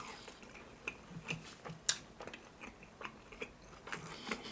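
Close-miked biting and chewing of a breaded Nashville hot fried chicken tender: a quiet scatter of small crunches and mouth clicks, the sharpest crunch about two seconds in.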